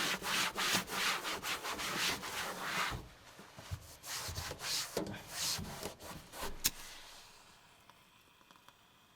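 Rhythmic scrubbing strokes, about three a second, as greasy surfaces in a small camper are cleaned up after cooking. The strokes grow sparser after about three seconds and die away shortly before the end.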